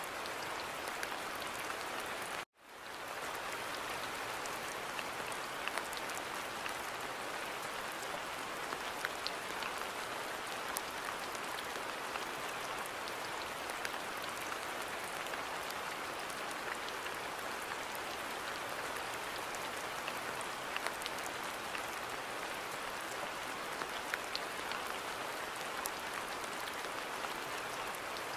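Steady rain falling in a garden, an even hiss with many separate drops ticking through it. About two and a half seconds in the sound cuts out for an instant and swells back.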